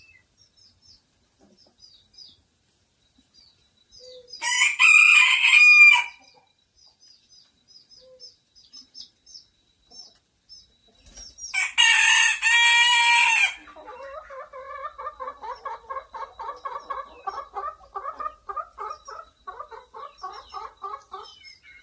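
A rooster crows twice, about four seconds in and again near the middle, each crow lasting under two seconds. Then a chicken clucks in a quick, quieter run to the end, over faint high chirps.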